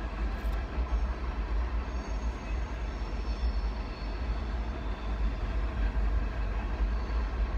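Long train rolling past, a steady low rumble with faint high squealing tones in the middle, heard from inside a car.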